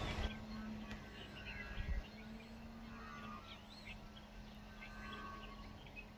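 Small birds chirping and singing in short, scattered rising and falling calls over a low, steady hum and faint outdoor background.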